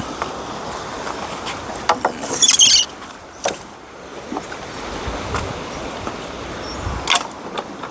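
Dry wood and brush being handled in undergrowth. Several sharp snaps, and a brief high crackling rustle about two and a half seconds in.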